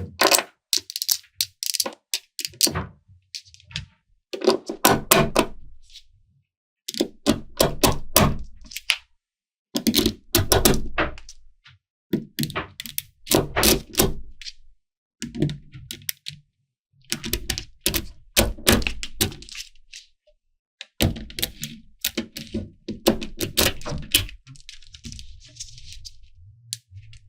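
Small magnetic balls clicking and snapping together, in runs of rapid sharp clicks a second or two long with short silences between.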